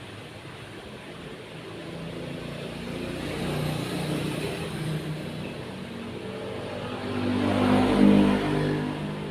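Motor vehicle engine running, its pitch shifting and growing louder to a peak about eight seconds in, as a vehicle passes.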